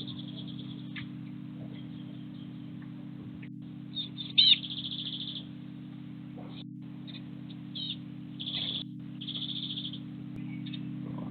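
Small garden birds chirping, with short high trilled notes every few seconds and one sharp, loud chirp about four seconds in, over a steady low hum.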